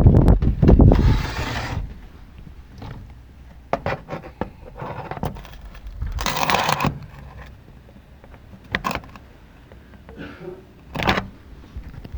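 Strong gusting wind, about 60 km/h, buffeting the microphone with a low rumble that comes and goes, and a rushing gust about six seconds in. Several sharp knocks and rattles come in between the gusts.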